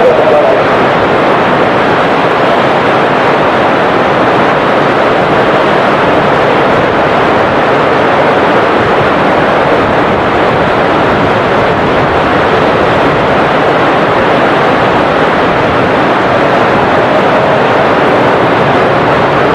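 Jet airliner engines running with a steady, unchanging roar, mixed with the wash of heavy rain and wind.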